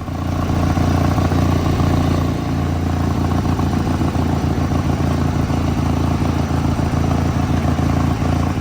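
Garden tractor engine running steadily at a fairly constant speed, with a rapid, even firing pulse.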